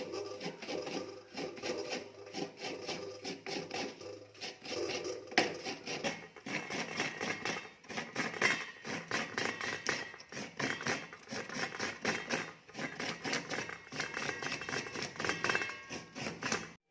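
Fresh coconut being grated: rapid, repeated scraping strokes of a coconut grater against the coconut meat inside the shell.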